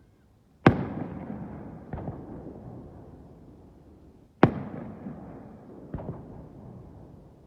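Fireworks shells bursting overhead: two loud bangs about four seconds apart, each rolling off in a long echoing rumble, with a smaller report a second and a half after each.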